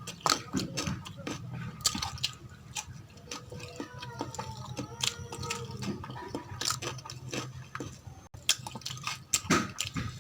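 Close-miked eating: wet chewing and lip-smacking on mouthfuls of mutton tahari with gravy, many sharp irregular clicks over a steady low hum.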